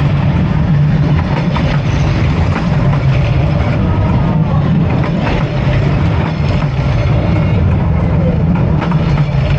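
Diesel-hauled train passing close by: a steady low engine rumble with clicks and rattles from the wheels and carriages.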